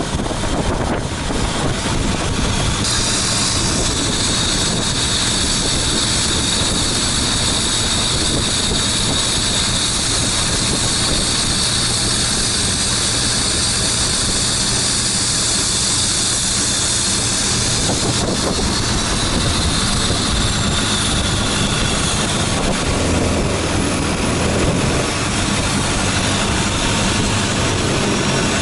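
Motorboat engine running steadily under way, with a steady high hiss over it. About 23 seconds in the engine note drops lower, as the boat eases off.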